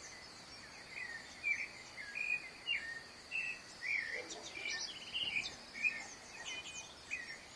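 Dawn bird chorus including clay-colored thrushes: many short chirping notes in quick succession, over a steady high insect drone.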